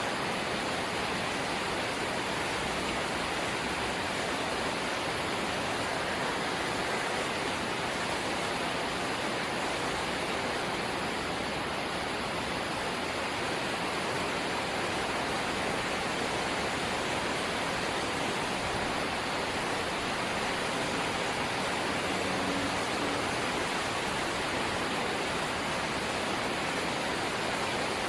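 Light rain falling steadily, a dense even hiss with no distinct drops or pauses.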